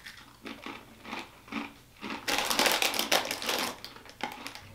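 Crunching of hard, cheese-dusted Cheetos pretzels being chewed: a few scattered crunches, then a dense stretch of crunching of about a second and a half in the middle.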